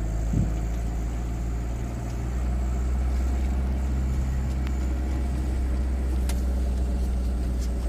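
A converted minibus's engine running as it drives, heard from inside the cab: a steady low drone that gets louder about two seconds in.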